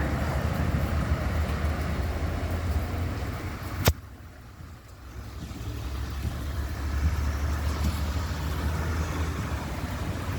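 Steady road traffic noise with a low hum. A sharp click comes a little under four seconds in, after which the sound drops away briefly and then builds back.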